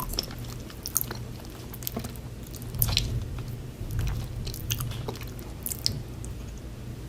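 A person chewing and biting food close to the microphone, with irregular wet clicks and small crunches, the sharpest about three seconds in. A steady low hum runs underneath.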